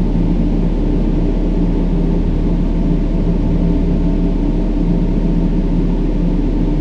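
Steady brown noise: an even, deep rushing hiss, heaviest in the low end, with a faint steady low drone running under it.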